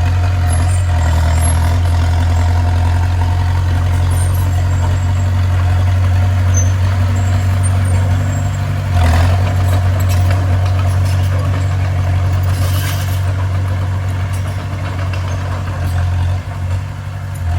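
Bulldozer's diesel engine running steadily, with a single knock about nine seconds in.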